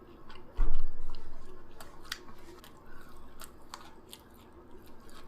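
Close-miked chewing and mouth sounds of someone eating, with scattered small clicks and smacks. About half a second in comes a loud, deep thump that dies away over a second, the loudest thing heard.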